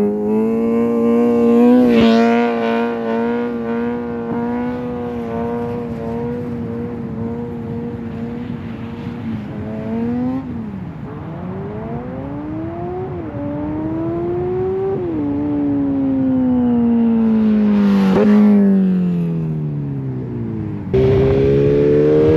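Motorcycle exhaust, extremely loud. The engine holds steady revs, then accelerates through a couple of gears, its revs climbing and dropping at each shift, and passes by with the pitch falling away. Near the end a cut brings in another run with the revs rising.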